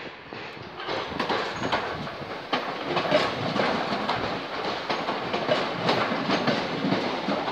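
Southeastern Class 465 Networker electric multiple unit rolling slowly past at close range, its wheels clicking over the rail joints about twice a second.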